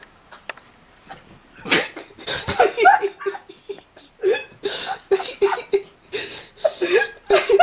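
Laughter in a long run of short, breathy bursts, starting a second and a half in.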